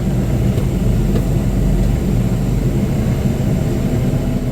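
John Deere compact tractor's diesel engine running steadily with a low, even drone.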